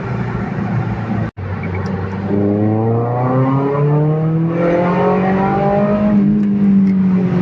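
Mazda MX-5 NC's 2.5-litre four-cylinder engine, breathing through a catless header and an exhaust with a cutout valve, revving up steadily over a few seconds and then easing off near the end. There is a brief dropout about a second in.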